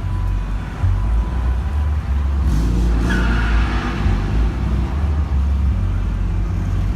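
A car's engine and heavy road rumble, with an engine revving up briefly about three seconds in.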